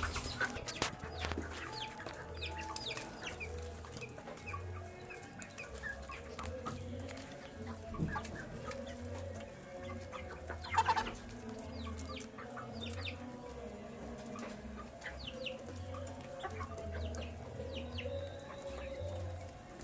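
Chickens clucking and chicks peeping with many short high chirps while they feed, with scattered sharp clicks.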